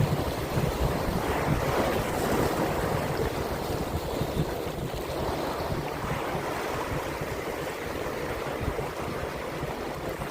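Wind buffeting the microphone over the steady wash of sea water, with no distinct events.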